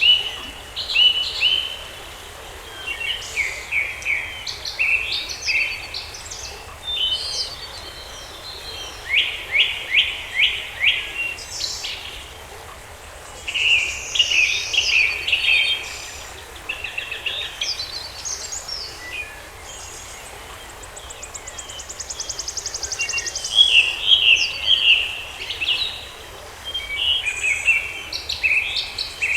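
Several songbirds singing and chirping in a forest chorus: short overlapping phrases and calls, with a fast, even trill partway through, over a faint steady background hiss.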